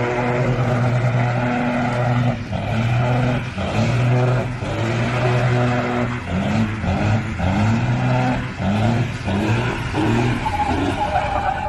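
A motor vehicle engine running hard and revving, its pitch climbing and dropping back in repeated surges.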